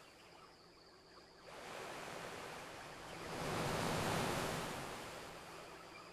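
Ocean waves on a beach: a wave surges in about a second and a half in, peaks midway and washes back out near the end.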